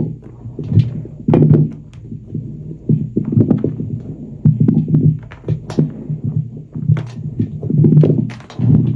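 Soapy sponge being squeezed and squished in thick foam: wet, muffled squelching in repeated squeezes about once a second, with small crackles of popping bubbles.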